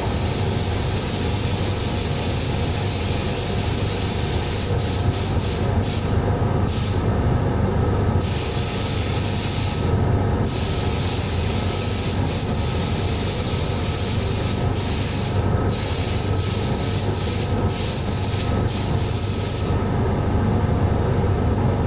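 Compressed-air blasting gun hissing in long bursts. It stops briefly several times and cuts off near the end, over a steady low hum.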